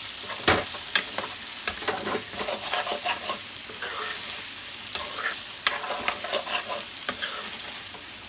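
Chicken liver and gizzard sizzling steadily in oil in a kadhai while being stirred and scraped with a spatula, with a few sharp clanks of the spatula against the pan: the dry roast as the masala cooks down.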